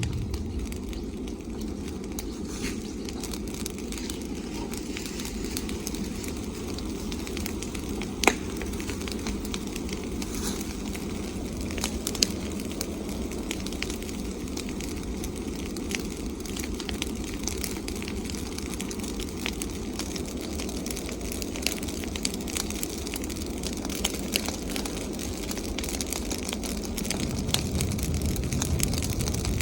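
Bonfire of branches and leaves burning, crackling steadily with scattered sharp pops, two of them louder about eight and twelve seconds in, over a steady low rushing noise.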